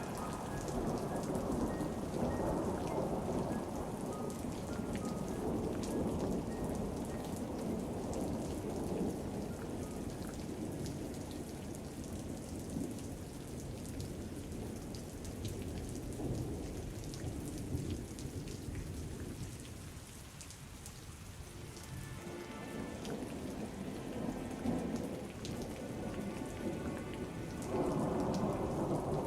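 Steady rain with rolling thunder. The rumble eases off about two-thirds of the way through, then builds back up near the end.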